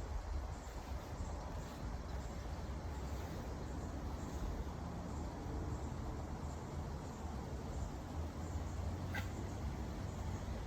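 Steady outdoor background noise with a low rumble and a faint hiss, and one small click about nine seconds in.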